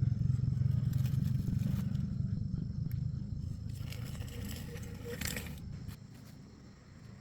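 A motor vehicle's low engine rumble fading away over about six seconds, with a brief scraping noise about four to five seconds in.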